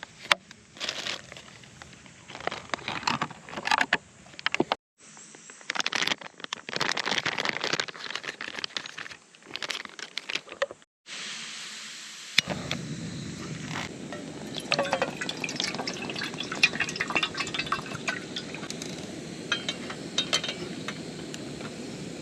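Small hard items clinking and clicking, with liquid being poured, in several short clips. A steady rushing haze lies under the later part.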